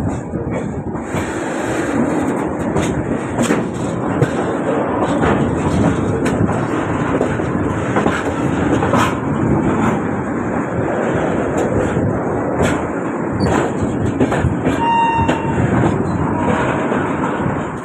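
Moving train's wheels running over the rails: a steady loud rumble with repeated clattering knocks over rail joints, as a freight train of tank wagons passes on the adjacent track. Near the end there is a brief high squeal.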